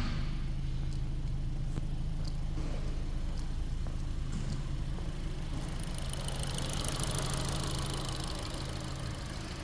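A 2023 Hyundai Tucson's 2.0-litre four-cylinder petrol engine idling with a steady low hum. About six seconds in, a higher hiss joins it.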